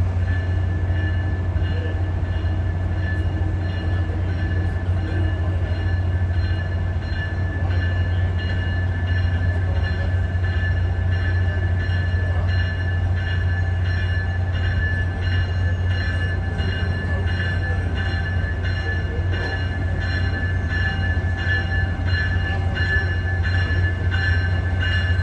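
Amtrak locomotive running at a standstill: a steady low drone with a thin, steady high-pitched whine over it.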